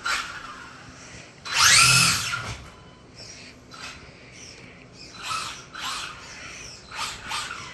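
Electric RC drag car's brushless motor whining as it is throttled: one loud burst about two seconds in that rises and falls in pitch, then several short, quieter blips near the end.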